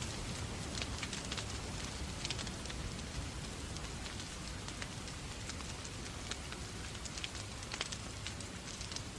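Wood fire crackling in a fireplace, with scattered sharp pops, over a steady hiss of rain.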